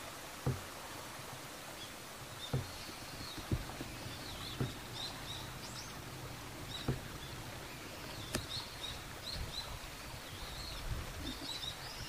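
Small birds calling with many short, high chirps and warbles, in clusters, over steady outdoor background noise; about six soft low knocks sound at intervals.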